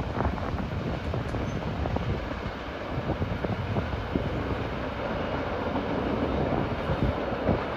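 Freight train's steel wheels rumbling and clicking over the rails as the rear cars run away at speed.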